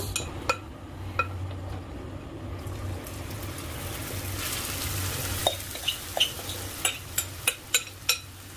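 Daikon-mochi batter frying in a shallow layer of hot sesame oil: a sizzle that swells about three seconds in. Scattered sharp pops and taps of utensil against pan run through it, thickest in the second half.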